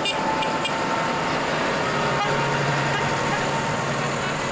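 Tractor engines running, with a horn giving a quick series of short toots that stops just under a second in.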